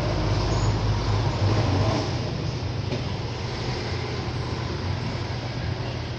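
Steady mechanical droning hum over a constant noisy background, a little louder for the first two seconds before settling.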